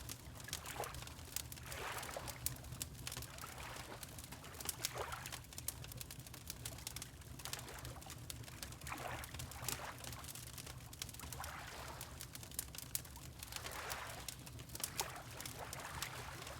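Water lapping in soft swells every second or two, over the steady crackle and pops of a wood fire in a fireplace and a low rumble.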